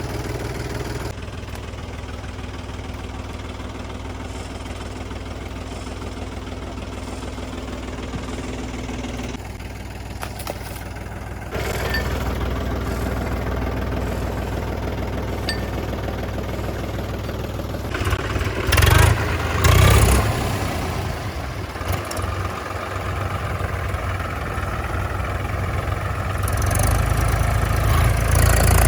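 Heavy diesel engine running steadily, its sound changing abruptly several times, with two short loud bursts about two-thirds of the way through and louder running near the end.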